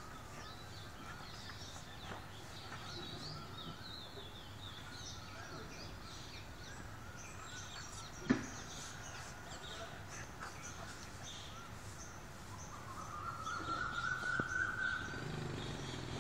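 Birds chirping and twittering, with a drawn-out call late on and a single sharp knock about halfway through.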